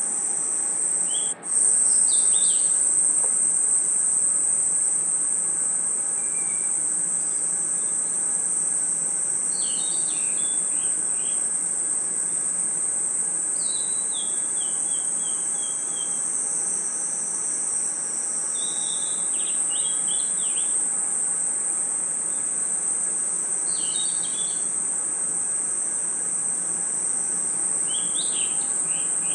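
Night chorus of crickets and other insects: a dense, steady, high-pitched trill. Over it a bird sings short phrases of a few quick chirps every four or five seconds, one of them a falling run of notes. The chorus cuts out for an instant about a second in.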